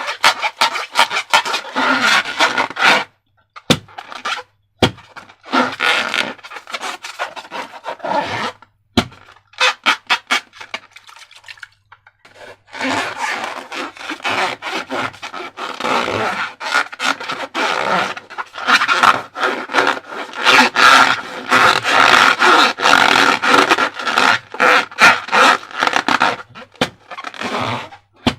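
Rubber balloon being handled, rubbed and stretched, giving rapid squeaking, creaking crackle in long runs with a few short pauses.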